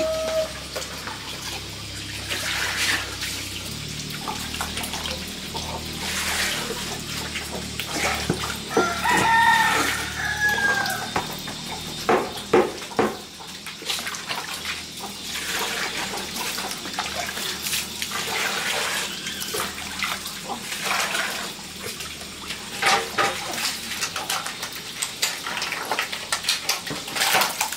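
Water splashing and sloshing with scattered knocks, and a chicken calling once for about two seconds, about nine seconds in.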